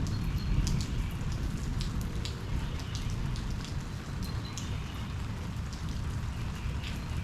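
Steady rain, with many separate drops ticking sharply on a nearby surface over a low, continuous rumble.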